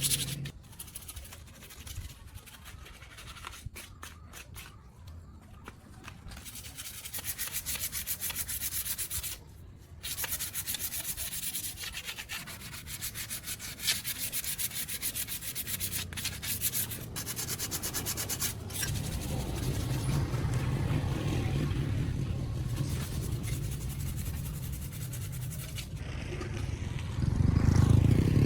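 Abrasive sanding and rubbing on a motorcycle part in fast, even strokes. A low rumble takes over in the second half and swells loudly near the end.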